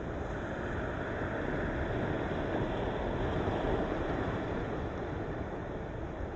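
Ocean waves breaking on the rocky shore of a sea cape, a steady wash of surf that swells gently in the middle and eases off toward the end.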